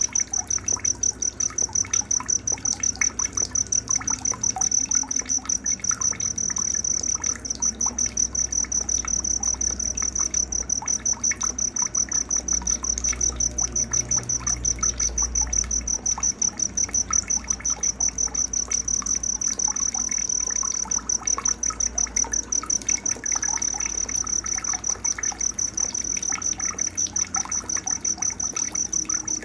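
Night nature ambience: a cricket chirps in a high, evenly pulsed trill, with scattered short bird chirps and a faint trickle of water beneath.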